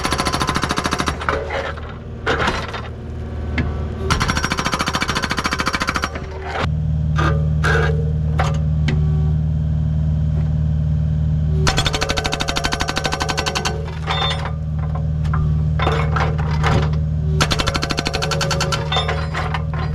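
Agrotk hydraulic breaker hammer mounted on a Kubota U55 mini excavator, hammering in four bursts of rapid blows, over the steady running of the excavator's diesel engine. The engine note steps up a little under half way through and holds there.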